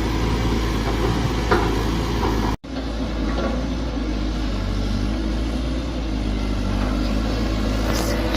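Mini excavator engine running steadily, with a short knock about a second and a half in. The sound cuts out for a moment about two and a half seconds in, then the engine carries on.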